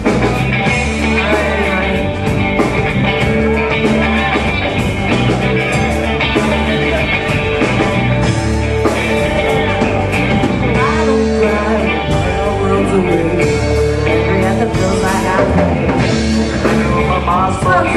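Live rock band playing with electric guitar and drums, with some singing.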